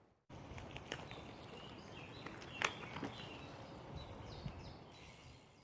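Outdoor nature ambience with birds chirping, scattered clicks and one sharp knock about two and a half seconds in.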